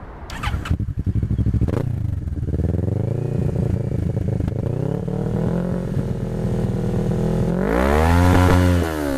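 Kawasaki ER-6n's 649 cc parallel-twin engine running through its exhaust: a few clicks near the start, then a steady idle from about a second in, and one blip of the throttle about eight seconds in, the note rising and falling back to idle.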